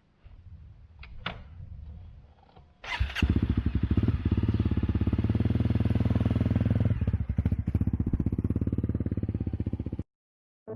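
An engine starts about three seconds in after a few clicks and runs at a steady idle with an even, rapid beat, then cuts off abruptly near the end.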